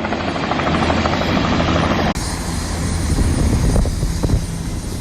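Helicopter running close by, a loud steady rotor and engine noise with a rapid regular chop; the sound changes abruptly about two seconds in.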